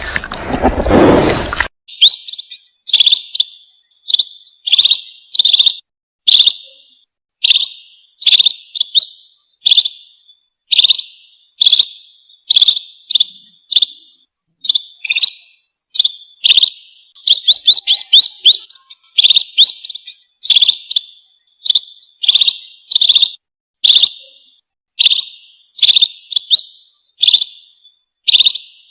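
A small bird chirping over and over in short, sharp, high calls, about one or two a second with a few quicker runs. Before the calls begin, a loud rushing noise cuts off suddenly within the first two seconds.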